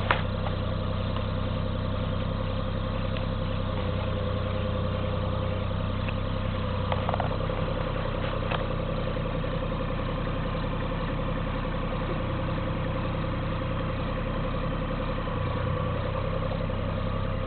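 Cat 302.5 mini excavator's diesel engine running steadily while it digs, with a few light knocks about seven and eight and a half seconds in.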